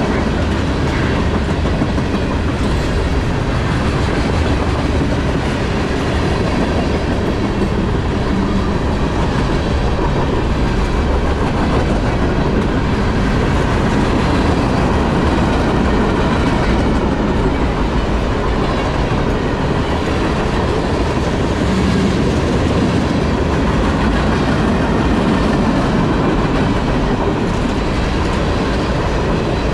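Norfolk Southern freight train rolling past at steady speed, its cars' steel wheels running on the rails in an even, unbroken rumble.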